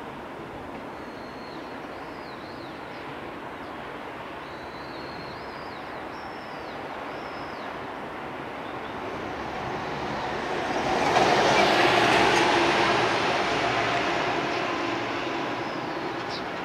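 Electric train running on the rails: its rumble and wheel noise build slowly to a peak about eleven seconds in, with a steady motor hum, then fade. Small birds chirp in the first several seconds.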